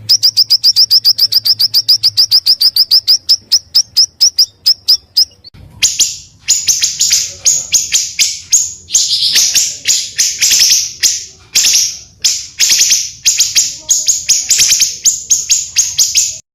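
Small songbirds singing: a long, fast run of high repeated notes at about eight a second, then loud harsh rasping bursts in quick groups.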